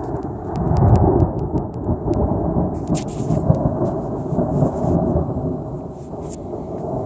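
Rolling thunder: a long, deep rumble that swells over the first second, rolls on and slowly fades, with rain and scattered sharp ticks over it.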